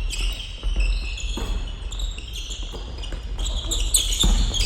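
Basketball being played on an indoor court: many short, high sneaker squeaks and the thud of a ball bouncing, with a couple of sharper knocks.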